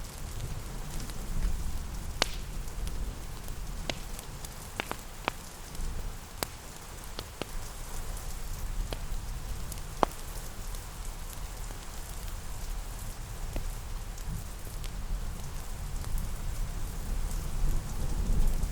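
Steady rain with a deep low rumble, mixed with a fireplace's scattered, irregular sharp crackles and pops.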